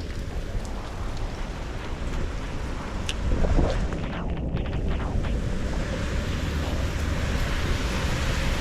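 Wind buffeting the GoPro microphone while riding a bike, a steady rumbling noise that swells briefly about three and a half seconds in.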